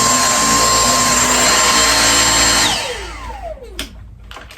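Dyson V6 cordless stick vacuum running at full speed with a steady high whine, suction restored with a fresh filter fitted. It switches off about two and a half seconds in, and the whine falls away as the motor spins down, followed by a few light clicks.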